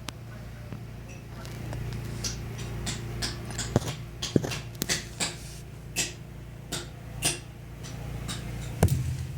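Faulty washing machine that neither washes nor spins: a steady low hum with a dozen or so irregular sharp clicks and knocks, the loudest near the end.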